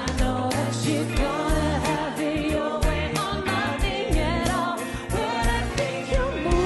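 A woman singing a pop song live with band accompaniment: a steady drum beat and a sustained bass line under her voice.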